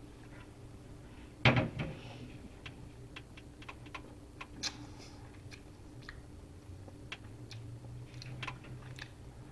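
Mouth sounds of someone tasting beer: a louder sip about a second and a half in, then faint, irregular lip smacks and tongue clicks.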